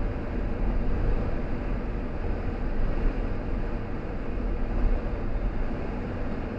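Steady road noise of a car being driven: a continuous low rumble with a hiss of tyres and air over it.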